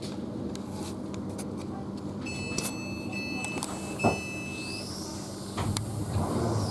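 Electric train rumbling, with a steady electronic tone for a couple of seconds and a knock about four seconds in, then the traction motors whining up and down in pitch as it gets moving.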